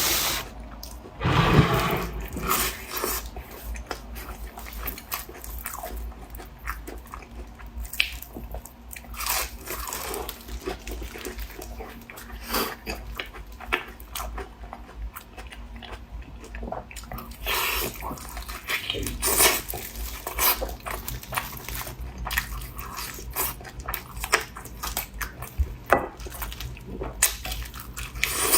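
Close-miked eating: bites and chewing with irregular crunches and mouth clicks.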